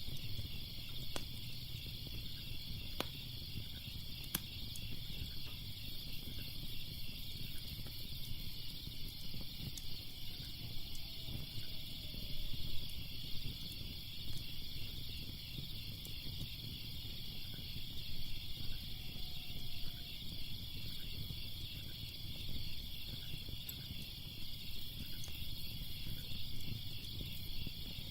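Insects chirping in a steady, fast-pulsing chorus, over a low rumble from a wood fire that pops with occasional sharp crackles.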